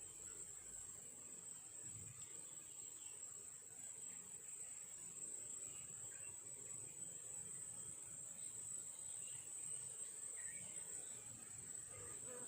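Faint, steady high-pitched insect chorus, crickets trilling without a break.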